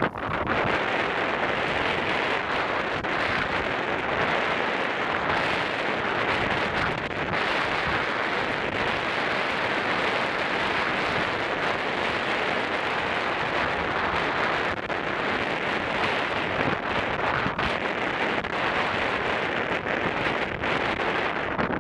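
Steady rushing jet noise of a Boeing 767 during its landing, even in level throughout.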